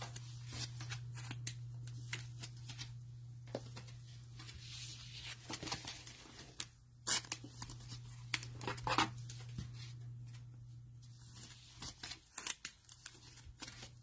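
Cellophane wrappers on trading-card cello packs being torn open and crinkled, with cards handled: a run of irregular rustles and sharp crackles. A steady low hum sits underneath and cuts out about twelve seconds in.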